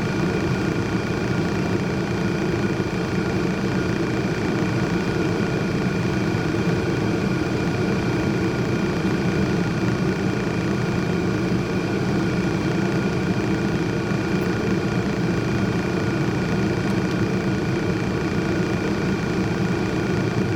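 Steady mechanical drone with a low hum and faint steady whining tones above it, unchanging throughout, like an idling engine.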